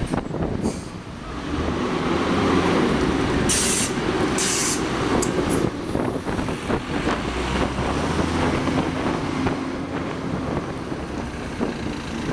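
Large vehicle running steadily with a low rumble, with two short hisses about three and a half and four and a half seconds in.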